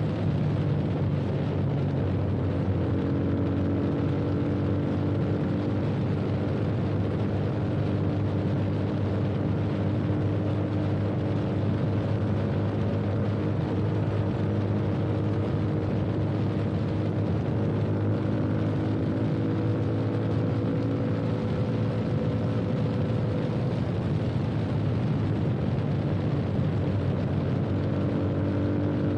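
Yamaha FZ25's single-cylinder engine through an aftermarket Akrapovič-replica slip-on exhaust, running steadily under way, its pitch drifting slowly up and down with small throttle changes, over a steady rush of noise.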